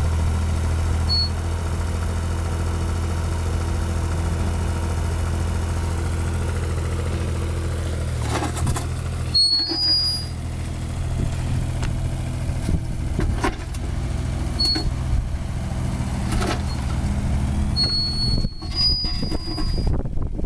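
Diesel engine of a Cat mini excavator running steadily. From about eight seconds in there are knocks and clanks as it works, with a few short high squeals.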